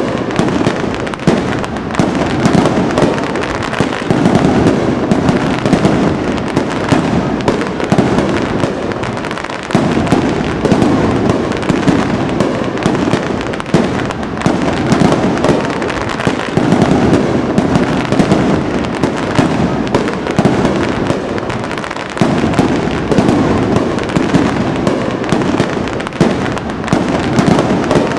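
Fireworks display: a dense barrage of aerial shell bursts and crackling, many reports overlapping with no pause.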